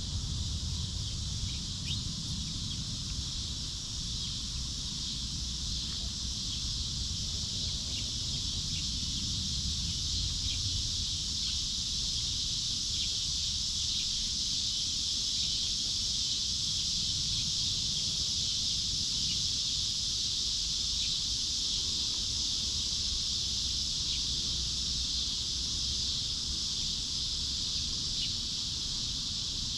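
Steady, high insect chorus droning without a break, with a low wind rumble underneath and a few faint short chirps.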